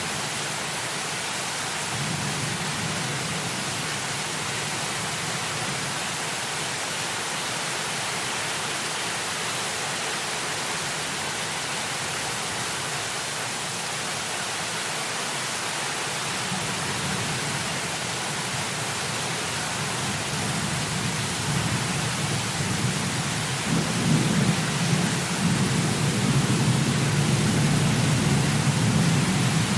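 Heavy rain falling as a steady hiss, with a low rolling rumble of thunder that builds and grows louder over the last third.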